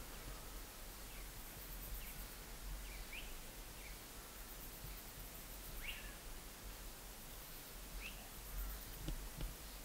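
Several short bird chirps and whistles, spaced irregularly, over a quiet, steady outdoor background hiss.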